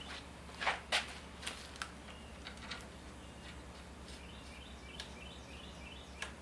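A few light clicks and knocks at irregular moments, the strongest about a second in, like tools or parts being handled during the axle job. Faint bird chirps sound in the background.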